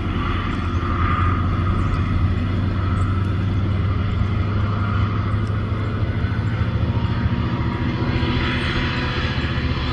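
Diesel-electric freight locomotive engine running with a steady low drone.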